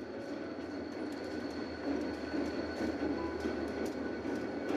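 Passenger train rolling past: a steady rumble of wheels on rails with occasional clicks over rail joints and a thin, high, steady whine. This is a dubbed-in train sound effect rather than the film's own sound.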